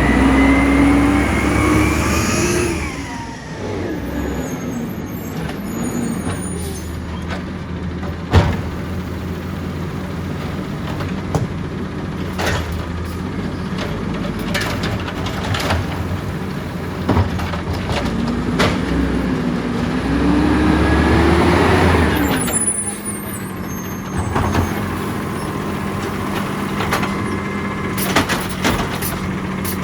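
Side-loader garbage truck at work: its engine revs up twice, near the start and again about twenty seconds in, with steady running and sharp knocks and clanks in between.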